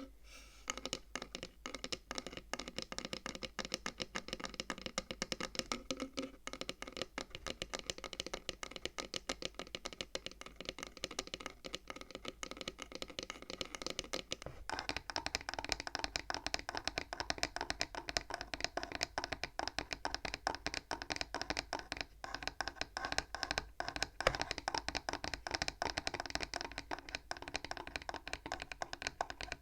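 Fingers tapping rapidly and continuously on the wooden frame of a bead abacus, a dense stream of quick, sharp wooden taps whose tone changes about halfway through.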